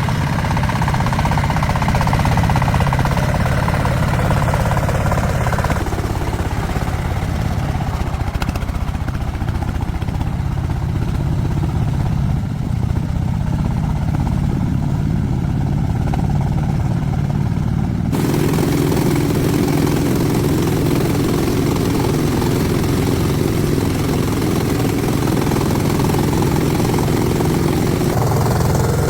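Vehicle engine running steadily. Its sound changes abruptly about six seconds in and again about eighteen seconds in.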